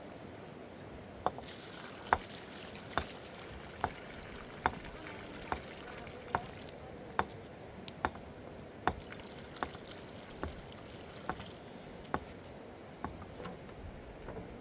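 A steady run of sharp knocks, a little more than one a second, repeated about fifteen times over a steady wash of running water.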